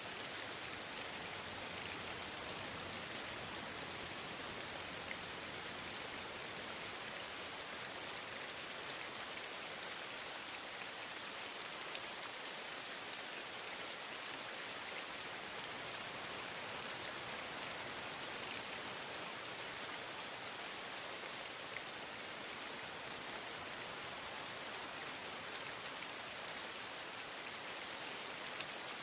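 Steady rainfall, an even hiss with scattered small ticks of individual drops.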